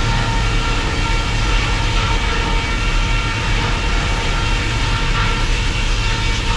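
Circular sawmill machinery running: a loud, steady mechanical hum with several steady high tones over it.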